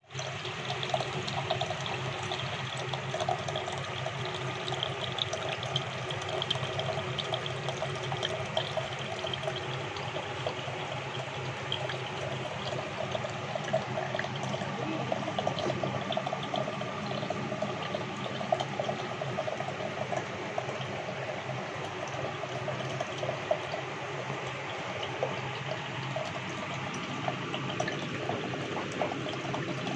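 Water running and splashing steadily in a small cement fountain of stacked pots, circulated by a mini pump.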